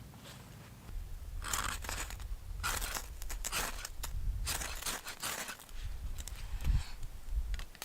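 A knife scraping in a series of short rasping strokes, roughly one a second, the blade working a feather stick and its fine shavings for a one-stick fire.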